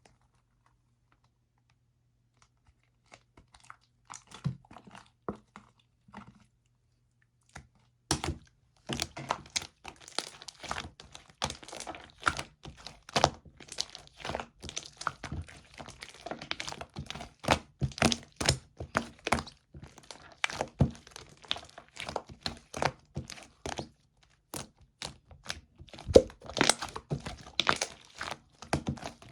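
Thick, chewy slime being pressed and squeezed by hand, giving irregular sticky clicks and pops. A few scattered clicks at first, then rapid and continuous from about eight seconds in.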